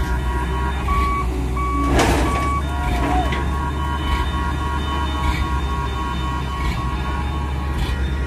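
A heavy vehicle's reversing alarm beeping in a steady on-off pattern over a diesel engine running, with a short hiss about two seconds in.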